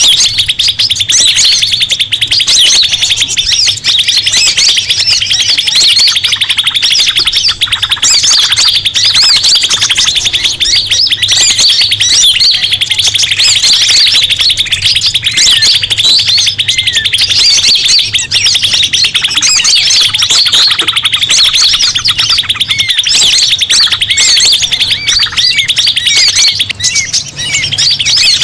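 Bird-lure recording of a dense, noisy chorus of many small birds chirping and twittering at once, over a steady fast buzzing trill. It is used to call forest birds in.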